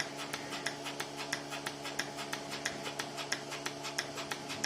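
Milking machine running: its pulsator clicks steadily, a strong click about every two-thirds of a second with lighter ones between, over the steady hum of the vacuum pump.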